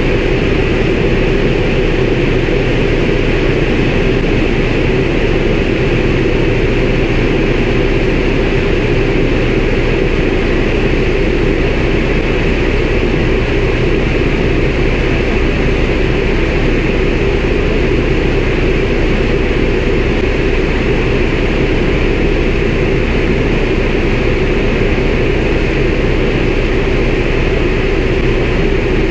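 CAC Winjeel's Pratt & Whitney R-985 radial engine and propeller running at a steady drone, mixed with air noise, heard from on board the aircraft.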